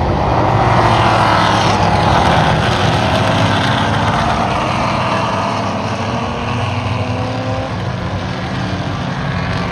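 Several Trans-Am TA-class race cars' V8 engines going past at speed, their notes falling in pitch as each one passes.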